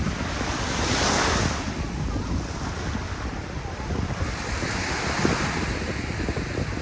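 Sea waves washing up onto a sandy beach: one surge about a second in and another broader swell a few seconds later. Wind buffets the microphone with a low rumble throughout.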